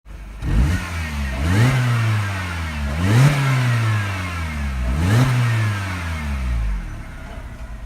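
2007 Mini Cooper R56's non-turbo 1.6-litre four-cylinder engine being blipped through its exhaust: three quick revs, each falling slowly back, then dropping to a quieter idle near the end.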